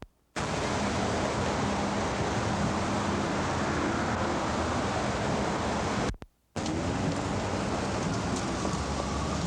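Steady rushing outdoor noise with no clear single source, the roadside din of a busy street mixed with wind on the microphone, cut off twice by abrupt half-second gaps of near silence, at the start and about six seconds in.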